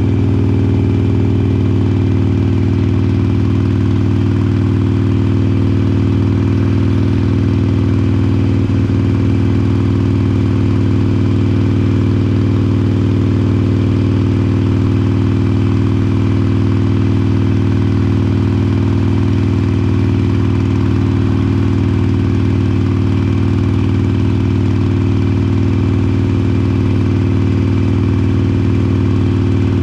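Harley-Davidson Iron 883's air-cooled V-twin running through Vance & Hines Short Shots slip-on mufflers, holding a steady engine speed with no revving up or down.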